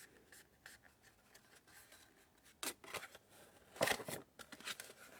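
Faint rustling and short scraping of cardstock being handled and folded, with a few brief crinkles about two and a half and four seconds in.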